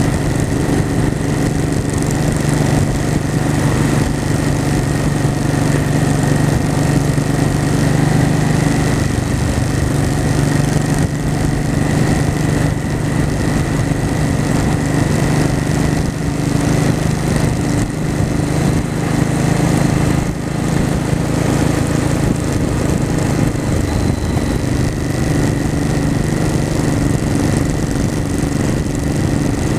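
Honda Shadow V-twin motorcycle engine running steadily while riding along, with no big changes in revs.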